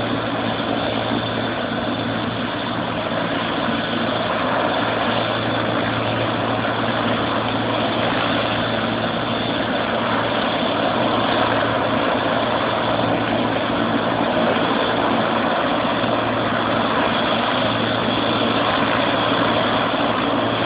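Helicopter running steadily: a constant engine and rotor noise over a low, even hum.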